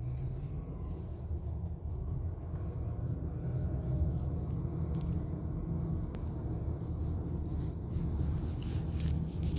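Sports car engine running steadily with a low rumble.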